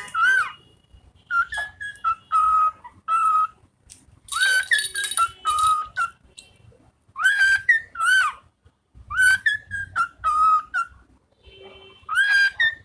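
A pet bird whistling its song in short, repeated phrases of clear notes that bend up and down, with brief pauses between them.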